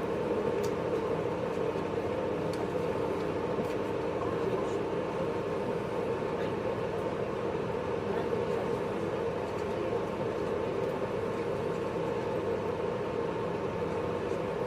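Steady running noise inside a JR 583 series electric train's motor car, an even rumble of wheels on rail and running gear with a faint hum over it.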